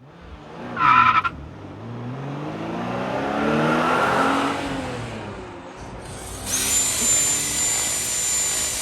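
A car engine revs up and falls back, with a short high squeal about a second in. From about six and a half seconds there is a steady hiss with a thin high whine.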